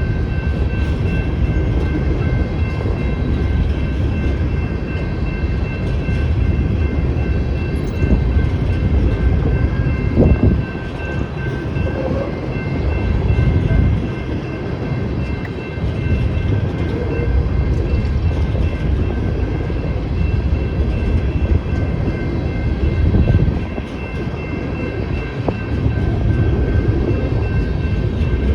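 Freight cars of a BNSF coal train rolling past with a steady low rumble of wheels on rail and a few louder clanks. Over it, the crossing's General Signals electronic bell rings steadily.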